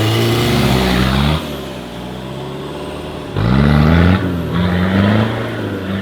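Off-road 4x4's engine revving hard in two bursts, the second rising sharply in pitch and then swinging up and down, with a lower engine note between them. The heavy production 4x4 is straining to get through the muddy stage.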